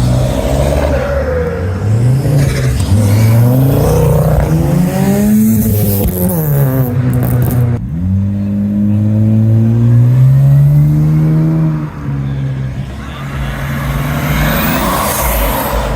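A car engine revving hard as the car accelerates away, its pitch climbing, falling back about five and a half seconds in, then climbing again before it drops off near twelve seconds.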